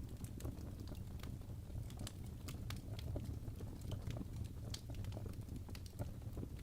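Wood fire burning in a fireplace: irregular sharp crackles and pops of the burning logs, several a second, over a low steady rumble of the flames.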